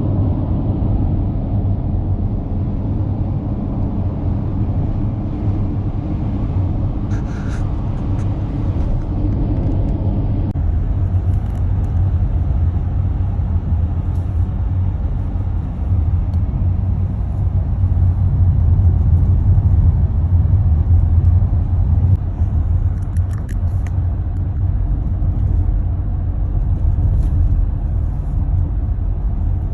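Steady low road rumble from a moving car, heard from inside the cabin.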